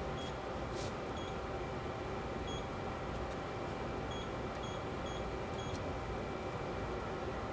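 Short electronic beeps, about seven of them at uneven intervals, over a steady background hum and hiss.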